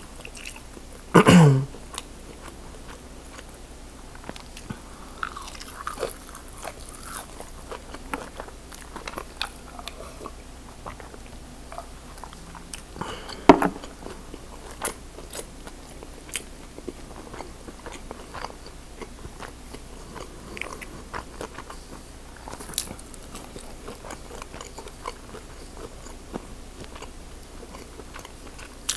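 Close-miked chewing and biting of fried shrimp and fries, with crunches and wet mouth clicks. A short loud sound falling in pitch comes about a second in, and a sharp knock about halfway through.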